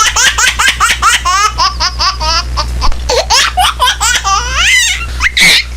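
Laughter sound effect: a rapid run of high-pitched laughs, about four or five a second, with a short break partway through, over a steady low hum.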